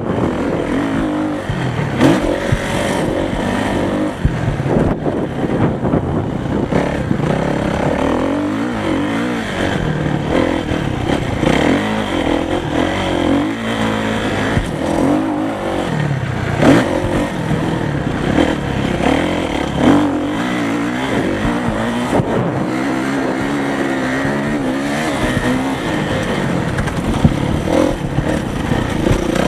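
Motocross motorcycles racing, their engines revving with the pitch rising and falling again and again.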